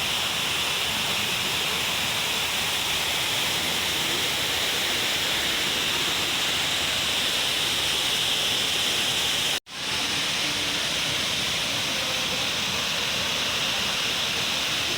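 Steady rushing hiss of a waterfall pouring down. The sound cuts out for an instant about ten seconds in, then comes straight back.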